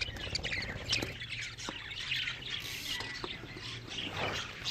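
A flock of budgerigars chattering, with many quick overlapping high chirps and squawks.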